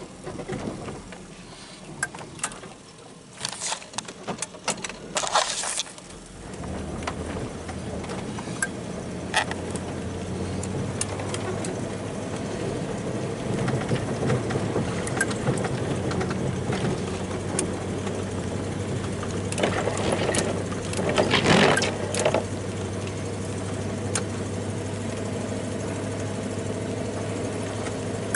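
Snowplow truck's engine running steadily, coming in about six seconds in after a run of clicks and knocks, with a cluster of louder knocks around twenty seconds in.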